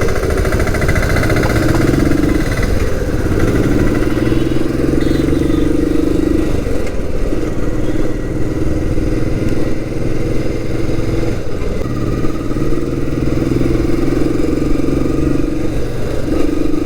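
Royal Enfield Classic 350's single-cylinder engine running steadily while the motorcycle is ridden, its note shifting in pitch and briefly dropping away every few seconds as the throttle changes.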